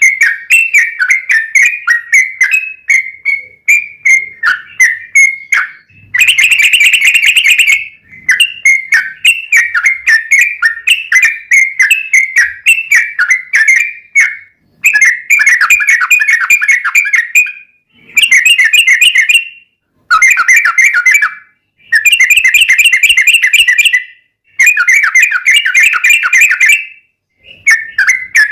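Yellow-vented bulbul (trucukan) singing its long, fast chattering song of bubbly whistled notes. The song comes in quick runs of notes lasting one to three seconds, with short breaks between them.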